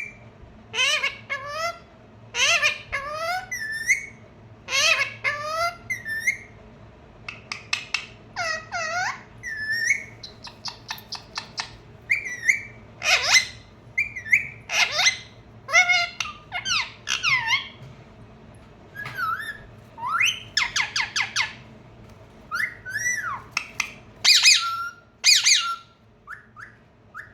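Pet parrot calling and whistling over and over: a long string of short, hooked calls that glide up and down in pitch, some in quick clusters of several notes.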